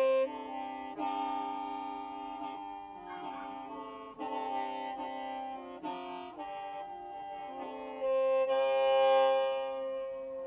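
Hmong qeej, a free-reed bamboo mouth organ, playing several notes at once, the chord changing about every second. One strong low note is held at the start and again in the last couple of seconds.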